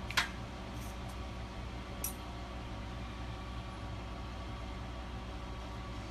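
A steady low mechanical hum with a few small sharp clicks: the loudest just after the start, two faint ticks soon after, and another click about two seconds in.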